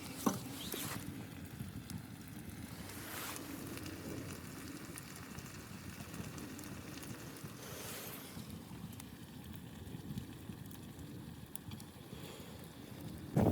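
Wind blowing steadily, swelling in a couple of gusts, with a sharp click just after the start.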